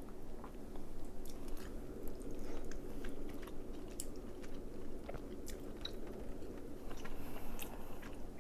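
A person chewing crab meat close to the microphone, with many short wet mouth clicks and smacks over a steady low hum.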